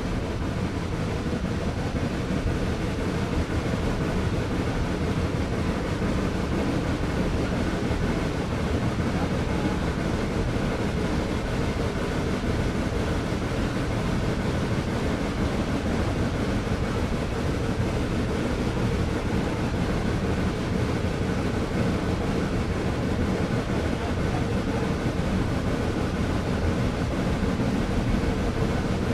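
Steam excursion train running along the line: a steady, continuous rumble with no breaks.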